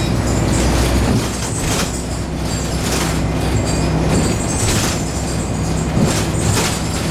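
Scania N113 bus in motion heard from inside the cabin: the engine's low drone runs steadily and drops back about a second in, with short hissing rattles every second or two.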